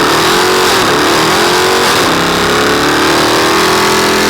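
Dodge Hemi V8 muscle car engine held at high revs for several seconds, pitch fairly steady with slight wavers, under a loud rushing hiss typical of spinning tyres in a burnout. The revs drop just after.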